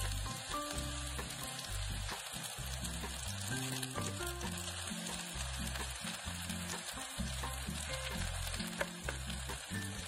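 Sliced green onions sizzling steadily in hot oil in a small aluminium pot, stirred now and then with wooden chopsticks, as scallion oil is made for chili oil. Background music plays underneath.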